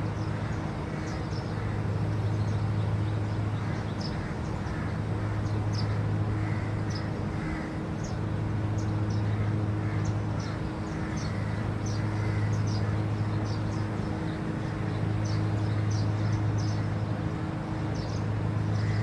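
Small birds chirping in short, repeated high calls over a low mechanical hum from an engine or motor that swells and eases every few seconds.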